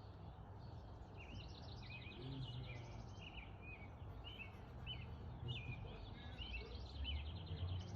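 Small birds chirping, many short repeated notes with a few quick buzzy trills, over a steady low rumble of background noise.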